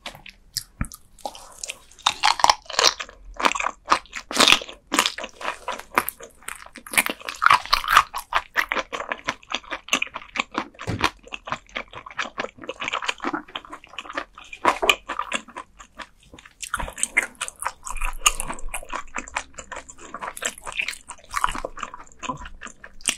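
Close-miked crunching and chewing of raw gizzard shad eaten bones and all, in a dense run of crackly bites with a short lull about two-thirds of the way through.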